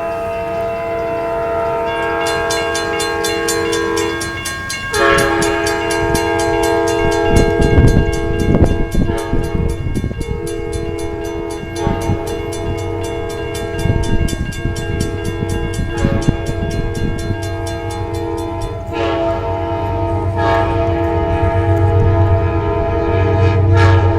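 Amtrak passenger train's air horn blowing in long blasts with brief gaps, ending in a short blast and another long one, the pattern sounded for a grade crossing. A crossing bell rings rapidly behind it, and the train's wheels clatter and rumble over the rails as it passes.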